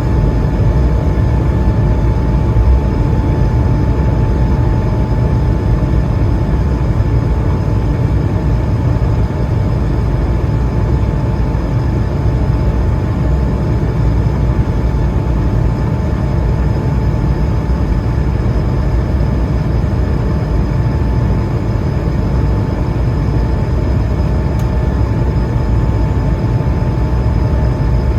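Cabin noise of an Airbus A220-300 during takeoff: a steady, loud low rumble of its Pratt & Whitney PW1500G geared turbofans and airflow, with a steady whine from the engines.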